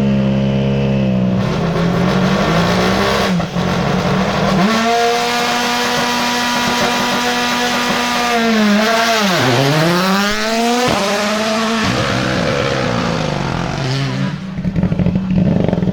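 Ford Puma Rally1's 1.6-litre turbocharged four-cylinder engine at high revs, passing at speed. The pitch holds high, dips and climbs through gear changes, and drops sharply about nine seconds in as the car goes by. A run of rapid sharp pops and cracks follows near the end.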